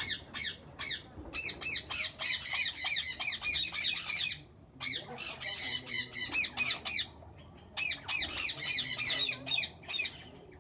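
Parrots squawking in fast runs of repeated harsh calls, in bouts with short lulls near the middle and again a little later.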